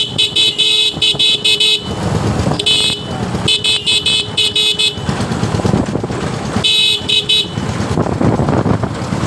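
Vehicle horn honking in rapid strings of short beeps, four bursts in all, the longest near the start, over steady traffic and engine noise on the road.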